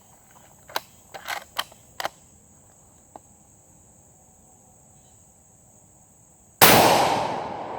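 A few faint clicks, then about six and a half seconds in a single shot from an Arisaka bolt-action rifle: one sharp, loud report with a long decaying echo.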